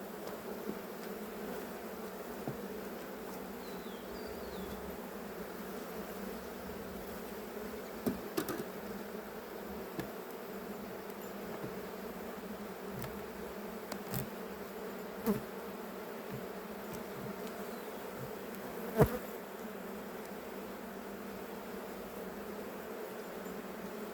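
Honeybees buzzing steadily in a hum over an opened hive, with a few sharp knocks and clicks now and then, the loudest about three-quarters of the way through.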